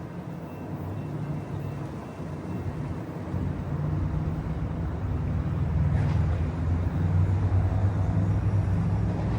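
Low engine rumble of a heavy vehicle growing steadily louder as it approaches, with a faint click about six seconds in.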